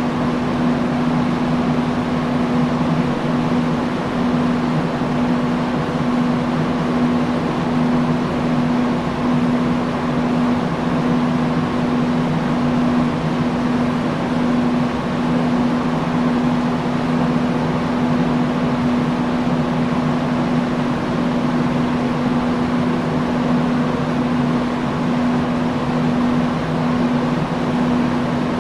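Industrial fan running steadily: an even rush of moving air over a constant low hum from the motor.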